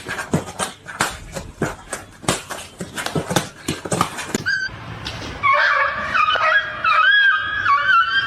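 A quick, uneven run of sharp taps or clicks for about four seconds, then a pet animal whining in a high, wavering voice from about five seconds in.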